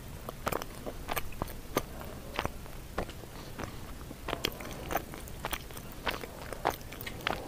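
A person chewing a mouthful of rice and sweet potato leaf salad, a fast, irregular run of short wet mouth clicks and smacks.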